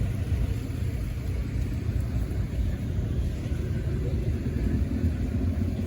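Steady low rumble of road traffic and vehicle engines running.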